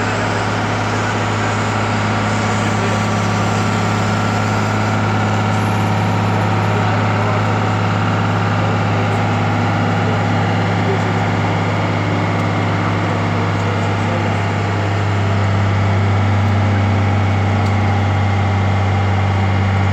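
An engine running steadily at idle with a low, even hum, getting a little louder about three-quarters of the way through.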